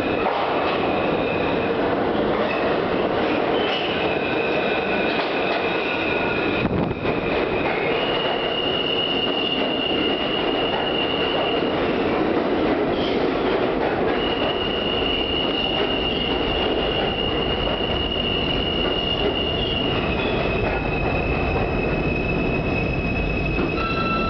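New York City subway E train running, a continuous rumble of steel wheels on rail, with high steady wheel squeal that holds for several seconds at a time and shifts pitch a few times.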